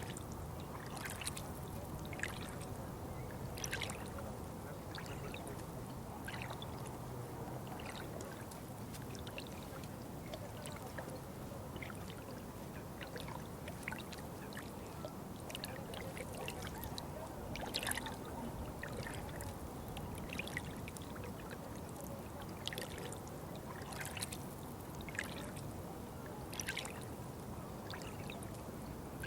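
Water trickling and pouring steadily, with frequent small irregular splashes and drips over the flow.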